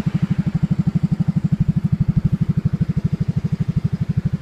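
Motorcycle engine idling, a steady even beat of about twelve pulses a second.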